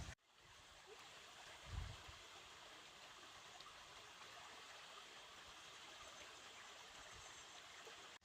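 Faint, steady rush of flowing stream water, with a single soft low thud about two seconds in.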